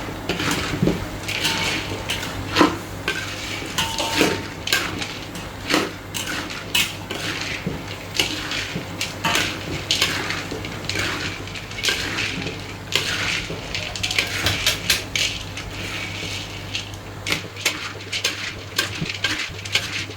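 Metal spatula scraping and clanking against a frying pan in quick, irregular strokes as textured soy protein is stir-fried with curry paste.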